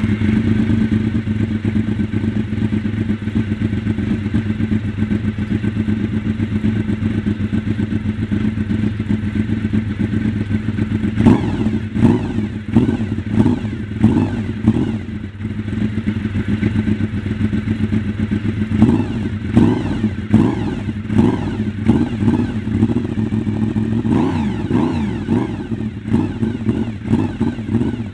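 Honda VFR750 motorcycle's V4 engine idling steadily, then from about eleven seconds in revved in repeated short throttle blips, each rising and falling quickly.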